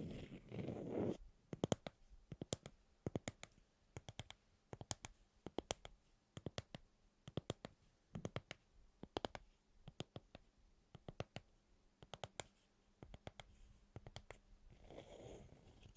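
Close, quiet clicking and tapping: short sharp clicks in small quick clusters, about one or two clusters a second, with a soft crunching sound in the first second and again near the end.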